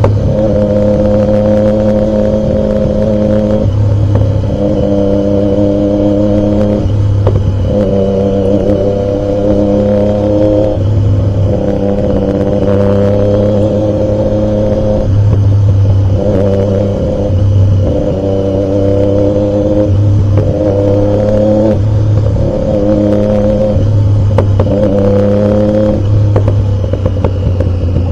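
Triumph Daytona 675's inline three-cylinder engine running loudly under way at a fairly steady pitch, the note breaking off briefly and coming back every couple of seconds.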